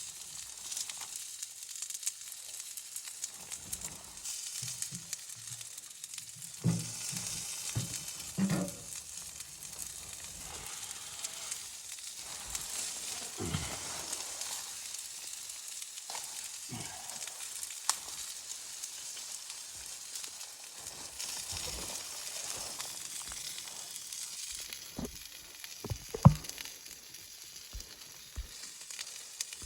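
Food sizzling in a pan, a steady hiss broken by scattered clunks and knocks of handling, with one sharp knock near the end.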